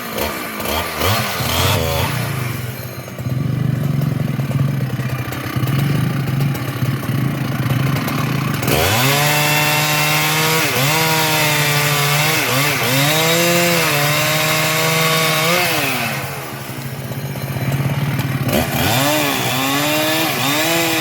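Large Husqvarna two-stroke chainsaw running, at a steadier lower pitch for the first several seconds, then at full throttle from about nine seconds in, its engine pitch repeatedly dipping and recovering as it cuts into a sengon (albasia) trunk.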